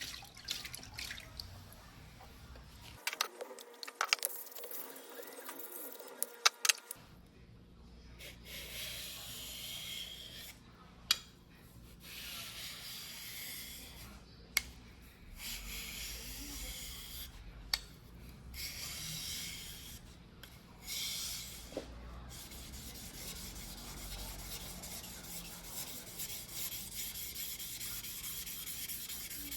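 Steel yanagiba blade rubbed by hand on a wet whetstone: long scraping strokes with short pauses between them, after a few sharp clicks in the first seconds.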